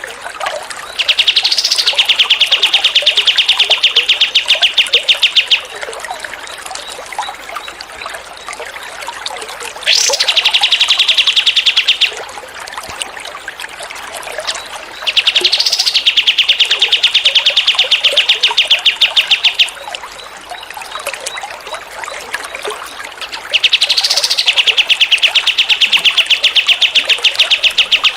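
A songbird giving long, fast trills four times, each opening with a short rising note, over a steady trickle of running water.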